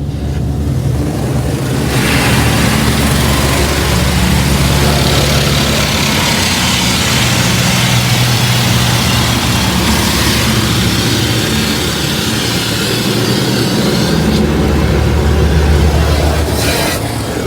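Water from a touchless car wash's overhead gantry spraying hard against the car, heard from inside the cabin as a loud, steady hiss. Under it runs the steady low hum of the wash's pump and motors. The spray comes on about two seconds in and drops away near the end.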